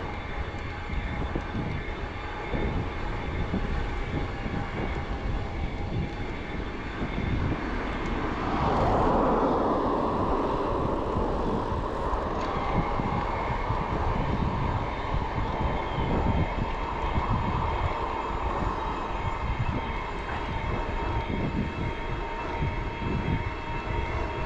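Wind buffeting the microphone of a moving e-bike, a steady low rumble. About nine seconds in, a broader rushing swell rises and lasts around three seconds before settling back.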